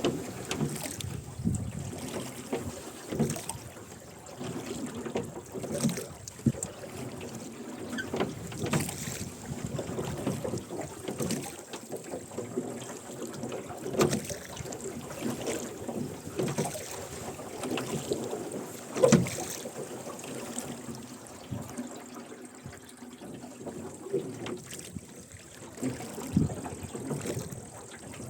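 Rowing boat under way: oars splashing and oarlocks creaking stroke after stroke, in an irregular run of knocks and splashes.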